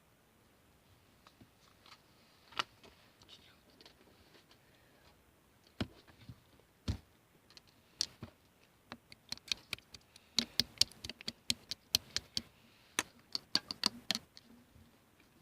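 Sharp clicks and taps, scattered at first, then a quick irregular run of them from about nine seconds in.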